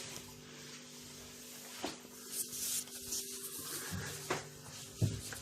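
Hands handling and seating a washing machine's drain pump: scraping and rubbing of parts, with a few light clicks and knocks.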